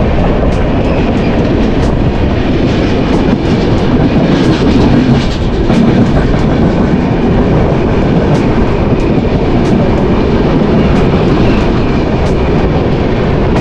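Two passenger trains passing each other at speed on adjacent tracks, heard from the open door of one. A loud, steady rumble and rush of coaches, with a rapid, irregular clatter of wheels over rail joints.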